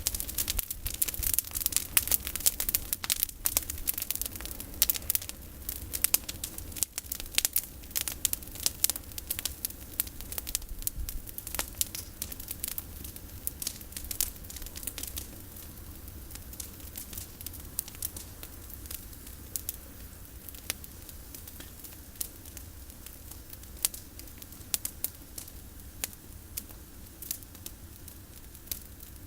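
Campfire of pruned olive branches crackling, with sharp irregular pops and snaps that come thick and fast at first and grow sparser from about halfway through.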